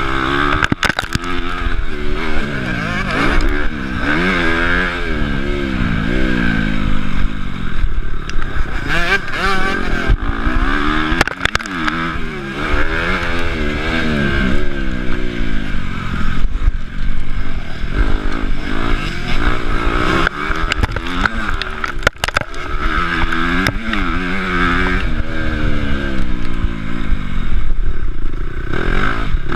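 Honda CRF250 motocross bike's four-stroke single-cylinder engine, heard from the rider's chest, revving up and dropping back again and again as the bike accelerates, shifts and rolls off around the track. A few sharp knocks cut through.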